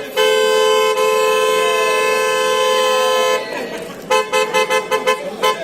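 Two-tone car horn held for about three seconds, then sounded in a quick series of short toots.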